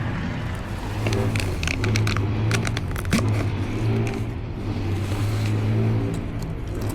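An engine running at a steady idle, with a cluster of sharp clicks partway through.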